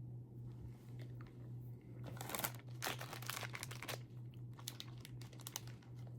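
Small plastic candy bag of gummies crinkling and crackling as it is handled. The bag is quiet at first, then gives a run of sharp crackles from about two seconds in until near the end.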